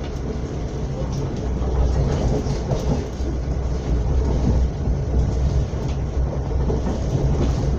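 Srbija Voz passenger train running at speed, heard from inside the carriage: a steady low rumble of wheels on rail with a few faint clicks.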